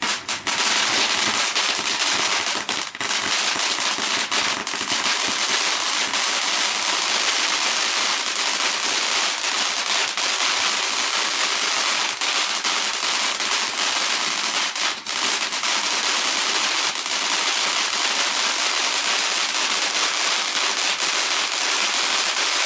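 Firework giving off a dense, continuous crackle of many tiny pops. It starts suddenly and holds at a steady loudness.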